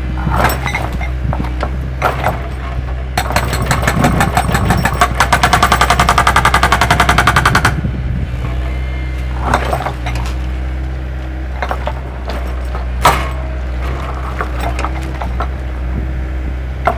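Excavator's diesel engine running steadily, with scattered knocks and clanks of metal and a fast rattle of repeated impacts lasting about four seconds, starting about three seconds in.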